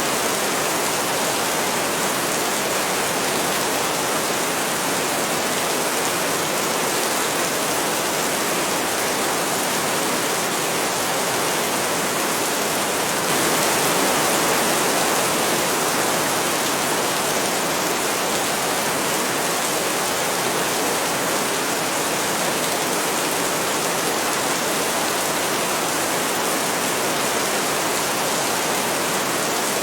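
Heavy rain falling in a steady, dense downpour, swelling slightly about halfway through.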